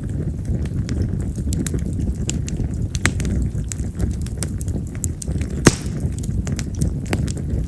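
Split wild cherry (yamazakura) firewood burning in an open fire: a steady low rush of flame with frequent sharp crackles and pops, the loudest about six seconds in. This wood is known for loud, firecracker-like pops.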